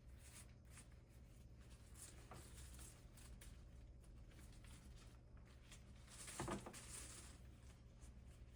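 Near silence with faint rustling and handling noises, and one louder brief rustle about six and a half seconds in.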